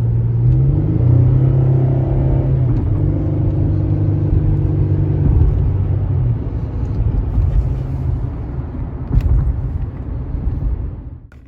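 2015 GMC Canyon's 3.6-litre V6 running smoothly on a test drive, with no misfires counted, over steady road rumble. The engine note rises and falls a few times with the driving, and the sound falls away just before the end.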